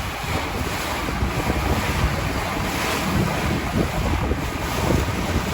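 Wind buffeting the microphone over the rush of sea water from a boat under way: a steady, noisy rush that gusts unevenly.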